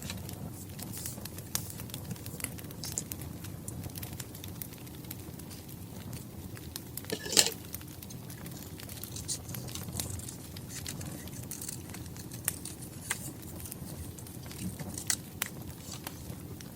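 Crackling wood fire: a steady low rumble with irregular small pops and snaps, and one sharp loud crack about seven seconds in.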